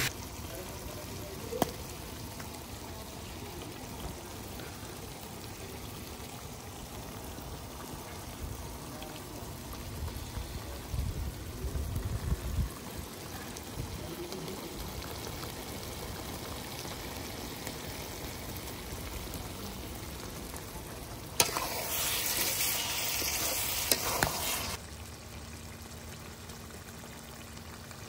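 Chicken liver and gizzard curry sizzling steadily in a kadai as it cooks down in the fat and juices released from the meat, with a few sharp clicks. It grows louder for about three seconds near the end, then settles to a quieter sizzle.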